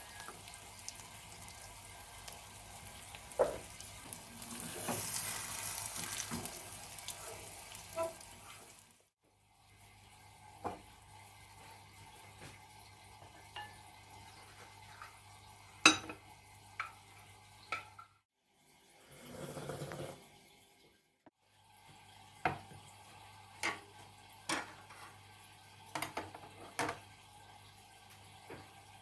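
Kitchen sounds of breakfast being made: a steady hiss for the first few seconds, louder about four to eight seconds in. After a sudden break come light clinks and taps of dishes and utensils, with a short rush of noise a little past the middle.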